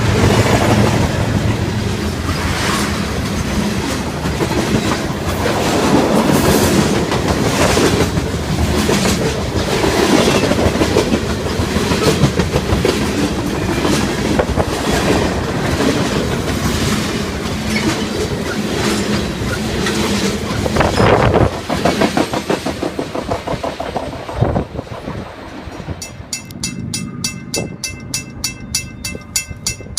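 A train rolling past, its wheels clacking steadily over the rail joints. The sound thins out about two-thirds of the way through. Near the end a fast, evenly repeating high ringing starts.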